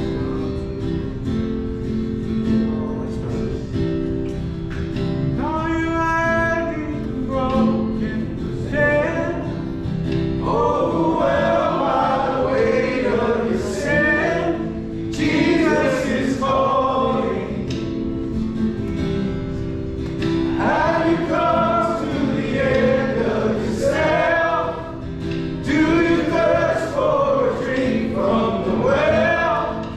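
Worship song with singing over sustained instrumental chords, a lone voice at first and then a group of male voices singing together from about ten seconds in.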